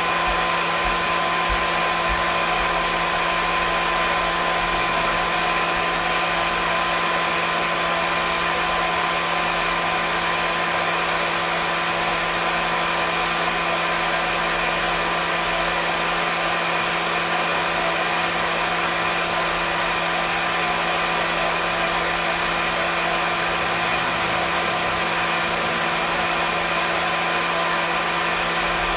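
Hair dryer running steadily: a constant airy rush with a steady motor whine of several fixed tones over it, unchanging throughout.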